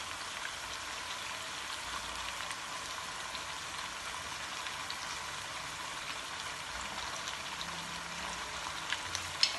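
Chicken pieces and halved tomatoes frying in hot oil in a wok, giving a steady, even sizzle. A couple of light clicks come near the end.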